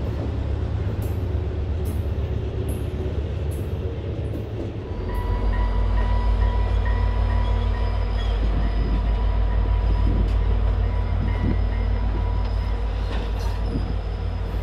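Freight train boxcars rolling past with a low rumble and a few sharp wheel clicks. About five seconds in this gives way to the heavier rumble of an EMD F40PH diesel locomotive hauling a passenger train, with a steady high whine over the engine sound.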